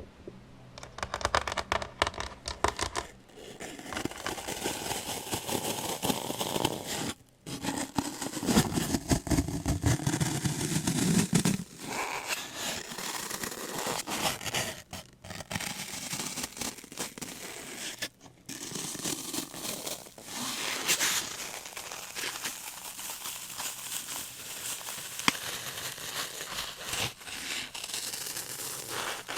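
ASMR trigger sounds made close to the microphone: objects crinkling, scratching and scraping in a continuous noisy texture. The sound is broken by a few brief pauses where the trigger changes.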